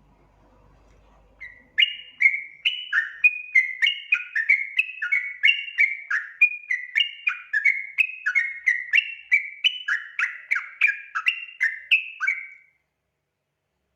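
Yellow-vented bulbul (trucukan) singing a long, fast run of bubbly warbled notes, about two or three a second. The song starts about a second and a half in and stops shortly before the end.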